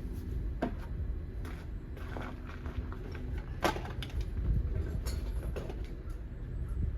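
Scattered small clicks and knocks of fingers working a clipped plastic electrical sensor connector deep in an engine bay, over a low steady rumble.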